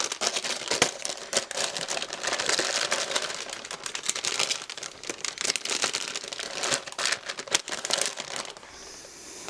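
Plastic parts bags crinkling and rustling as bagged model-kit runners are handled and dropped back into their cardboard box, with irregular sharp crackles and taps, easing off near the end.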